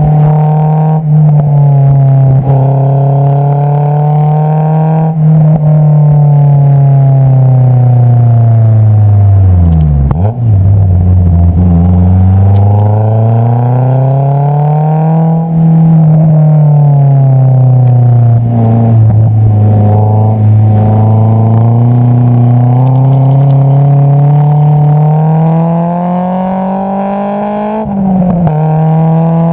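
Exhaust note of a Honda S2000 AP2's 2.2-litre inline-four through an Invidia Q300 exhaust, heard close at the tailpipe while driving. The revs sink for several seconds, dip sharply about ten seconds in, then climb again, hold fairly steady, and jump back up near the end, as the car is driven through the gears.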